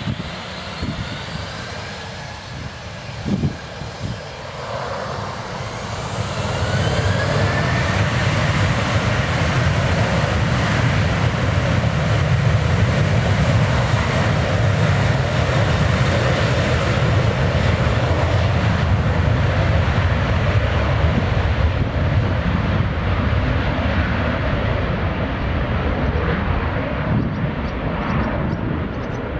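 Boeing 737-800's CFM56-7B jet engines spooling up to take-off power with a rising whine over the first few seconds, then running loud and steady with a deep rumble through the take-off roll, the high whine thinning and the sound growing fainter near the end.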